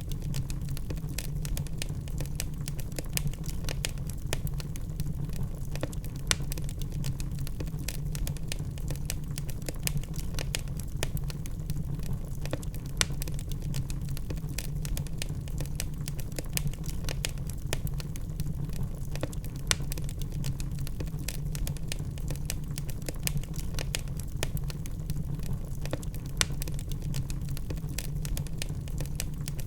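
Logs burning in a fireplace: a dense, irregular run of small crackles and snaps over a steady low rumble, with a few sharper pops.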